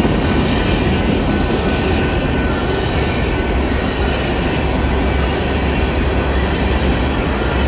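BNSF coal train rolling past, a steady loud rumble of wheels on rail.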